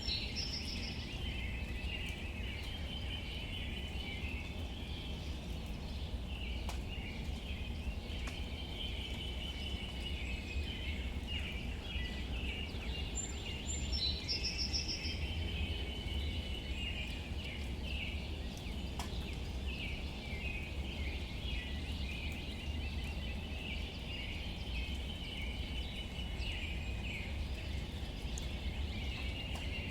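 Outdoor nature ambience: birds chirping and trilling, with a higher call about a second in and again near the middle, over a steady low rumble.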